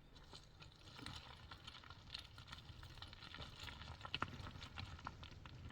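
Faint, irregular clicking and tapping, light knocks coming unevenly over a low rumble, with a louder cluster about four seconds in.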